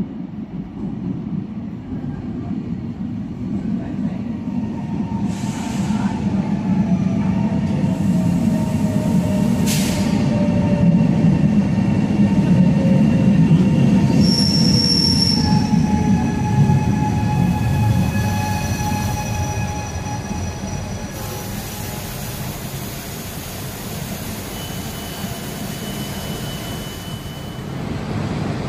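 ETR 425 Jazz electric multiple unit pulling into an underground station. The low rumble of wheels on rails builds to a peak as it comes alongside, under a slowly falling electric whine as it slows. A brief high squeal comes about halfway through.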